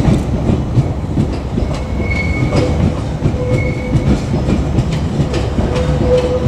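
JR Kyushu 817 series electric train running past, its wheels rumbling and clattering over the rail joints, with two brief high tones partway through.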